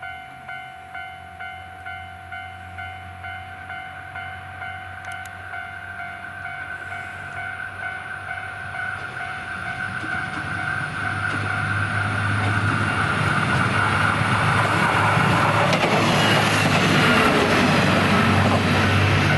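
A level-crossing warning bell rings about twice a second as a KiHa 126 series diesel railcar approaches. The railcar's engine and wheel noise grows steadily and becomes loud as it passes close by in the last few seconds.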